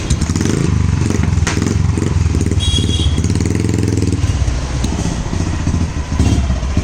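Motorcycle engine running with a rapid, low, pulsing exhaust beat.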